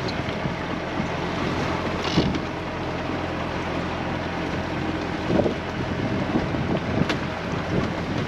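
Wind buffeting the microphone aboard a sailing yacht under way, over the steady rush of water along the hull, swelling briefly in a few gusts.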